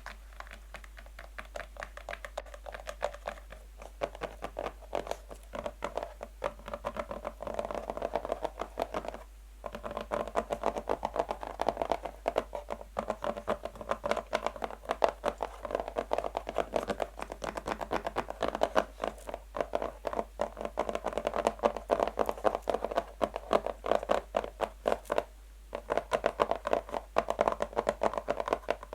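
Fast, light tapping of natural fingernails on a box: a rapid, continuous run of clicks, broken by two short pauses, about nine seconds in and again near the end.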